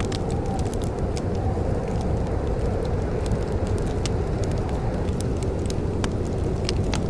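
Wood fire crackling in a fireplace: scattered sharp pops and snaps, irregular and a few each second, over a steady low rumble.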